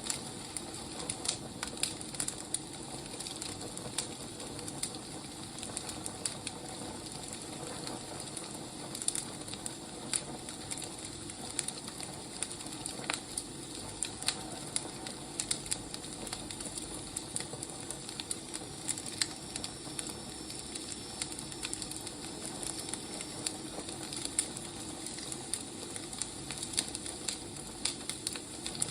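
Wood fire burning: a steady hiss with irregular sharp crackles and pops scattered throughout.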